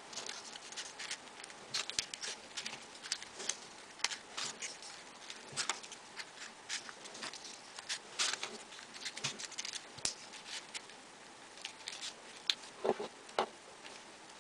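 Folded paper units of a 3D modular origami model being handled and pushed into place: irregular small, crisp ticks and rustles of paper, with a somewhat louder pair of clicks near the end.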